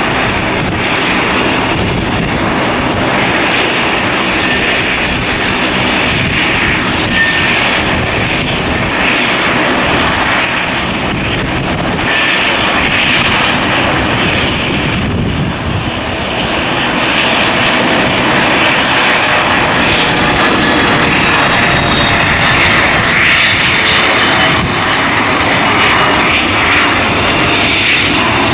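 Airliner jet engines running loud and steady, with wind buffeting the microphone; the engine noise swells a little about two-thirds of the way through.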